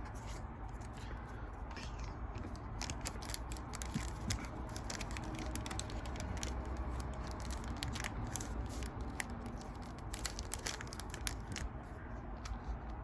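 Trading cards and a foil booster-pack wrapper being handled: irregular crinkling and small card clicks and slides.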